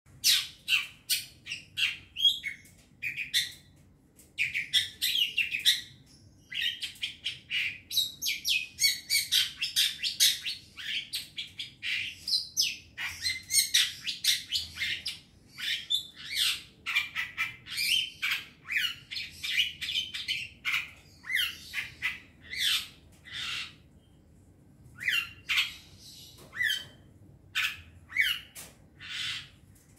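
Young long-tailed shrike (cendet) giving harsh, squawking calls in quick runs of several a second, broken by short pauses.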